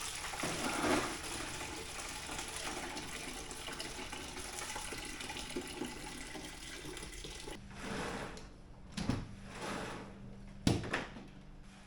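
Fluid draining from a car engine, pouring in a steady stream for about seven seconds, then stopping, followed by a few knocks.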